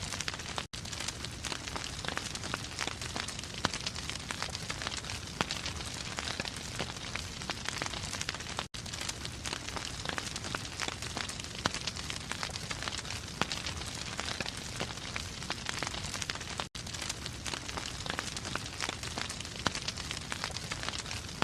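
Wood fire crackling and popping in a fireplace, a steady dense run of small snaps, with a momentary cut about every eight seconds.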